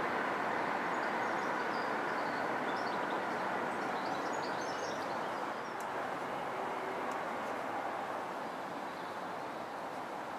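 Steady rush of wind, slowly easing, with faint bird chirps during the first half.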